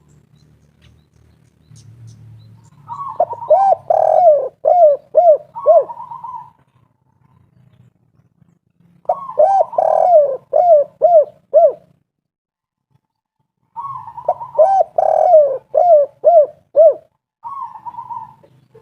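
Spotted dove (tekukur) singing its 'kuk 3' coo three times, about six seconds apart. Each phrase is a rolling note followed by a quick run of five or six short falling coos, and the first and last phrases end with another rolling note. A faint low hum lies under it.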